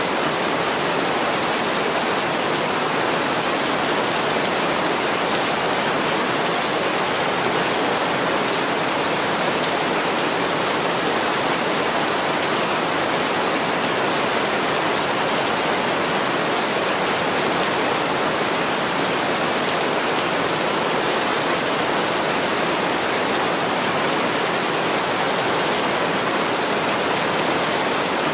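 Heavy rain pouring on a window, a steady, even hiss that never lets up.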